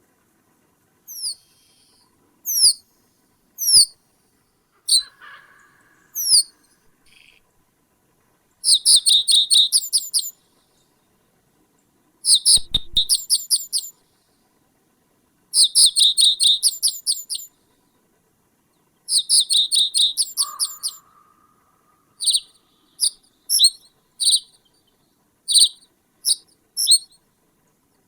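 A small bird calling loudly with high, downward-sweeping notes: a few single notes, then four quick runs of rapid repeated notes, each lasting a second or two, then single notes again spaced about a second apart near the end. Twice a brief lower call is heard.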